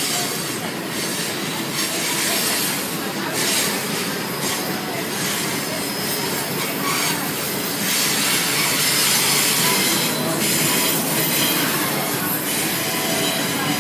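Freight cars of a CSX mixed freight train rolling past, their steel wheels rumbling and clattering over the rails in a steady wash of noise.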